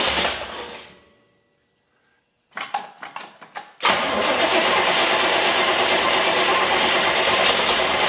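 Chevrolet V8 with a new Edelbrock Performer intake and Edelbrock carburetor, first start with the timing only roughed in. The running sound fades to silence about a second in. After a short gap the engine cranks and sputters in short bursts, and about four seconds in it catches and runs steadily.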